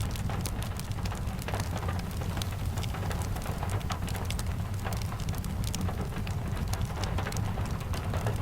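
Steady rain over a low rumble, with scattered sharp crackles and pops from a wood fire.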